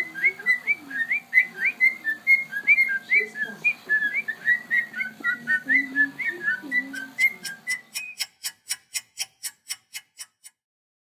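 A bird whistling a quick run of short rising and falling chirps, about three a second. About eight seconds in, this gives way to a run of evenly spaced clicks that fades out.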